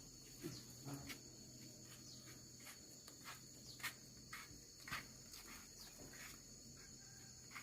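Faint, steady high-pitched chirring of crickets or other insects, with soft irregular taps about every half second to a second.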